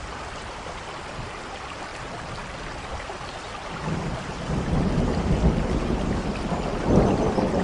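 Steady rain with thunder rumbling in, the rumble building from about four seconds in and loudest near the end.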